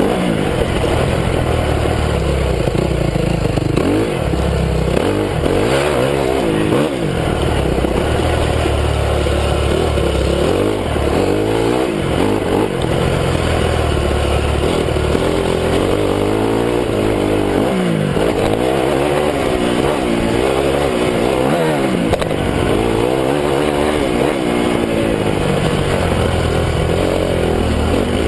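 Honda CRF250 four-stroke single-cylinder motocross bike engine being ridden hard, its pitch climbing and dropping again and again as the throttle opens and closes.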